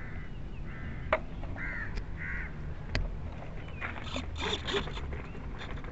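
A bird gives four short, harsh calls about two-thirds of a second apart, followed by a couple of sharp clicks and a brief patter of light ticks.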